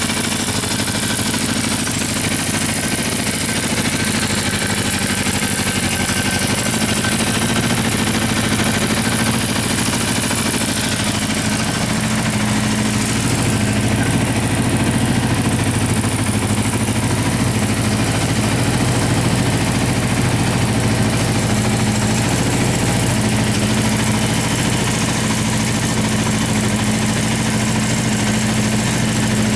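Honda CB400FOUR's 408cc air-cooled inline-four engine idling steadily, running evenly.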